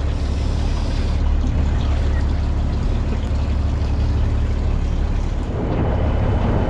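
Fishing boat's engine running steadily with a constant low hum, under wind and water noise.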